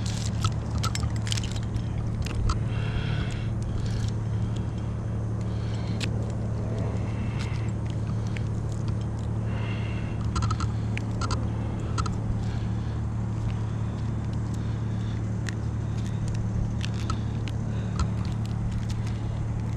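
Engine running steadily at idle, an even low hum, with scattered light clicks and scrapes from the climber's gear against the tree.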